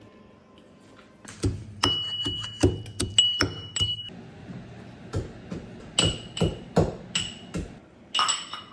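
Hard kitchenware being handled and set down on a counter: a string of sharp knocks and clinks starting about a second in, several ringing briefly.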